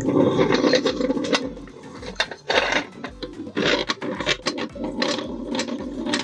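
Electric meat grinder running and chewing through a silicone pop-it toy: a steady motor drone overlaid with irregular crunching and scraping. It cuts in suddenly and cuts off suddenly.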